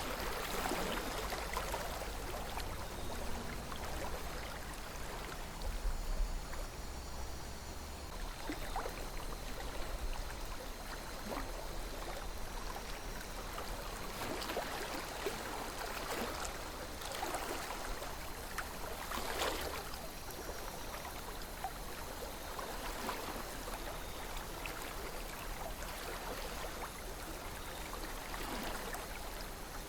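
A calm river flowing: a steady rush of water, with small splashes and gurgles standing out every few seconds.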